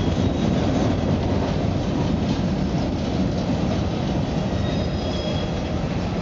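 Railroad cars rolling on track: a steady, loud rumble with a few faint, high wheel squeals.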